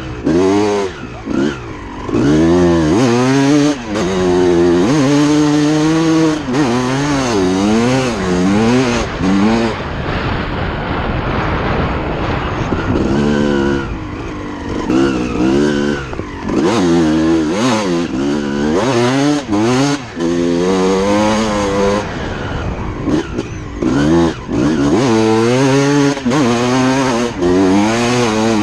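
Two-stroke motocross bike engine revving hard and backing off again and again, its pitch climbing and falling with throttle and gear changes, with short dips where the throttle is chopped.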